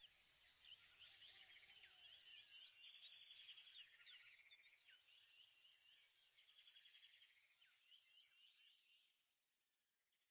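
Near silence with faint bird chirps and insect trills that fade out near the end.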